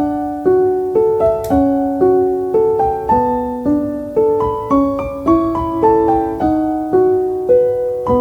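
Background piano music: a gentle melody of single struck notes, about two a second, each fading before the next.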